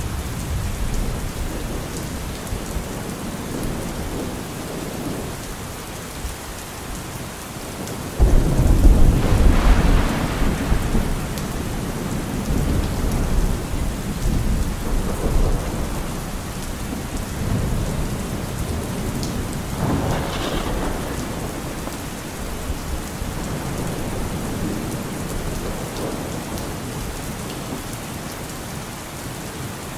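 Steady rain with thunder: a loud thunderclap starts suddenly about eight seconds in and rumbles for a few seconds, and a weaker peal follows about twenty seconds in.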